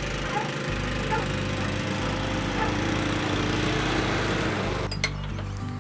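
Small engine running steadily under background music, its noise cutting off abruptly about five seconds in, followed by a single click.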